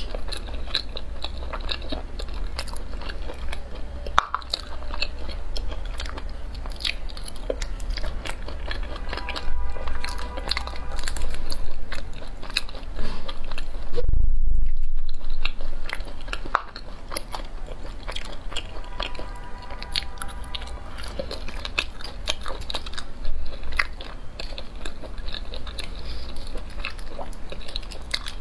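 Close-miked chewing and biting of chewy sea snail meat, with many small wet clicks throughout and a loud low thump about halfway through.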